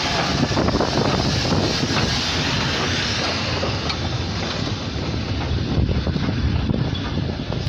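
Train running by with a steady rumble, and wind buffeting the microphone; the high hiss thins out about three and a half seconds in.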